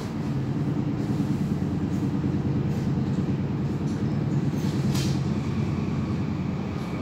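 Interior running noise of the NS VIRMm double-deck electric train set 9411 at speed: a steady low rumble of the train rolling on the rails. A brief sharp noise comes about five seconds in.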